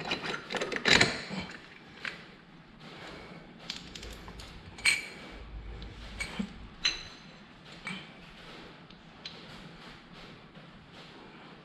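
Metal parts of a scooter's CVT variator clinking and clattering as it is taken apart and its roller weights handled. A dense rattle fills the first second, then single clinks follow, with one ringing ping about five seconds in.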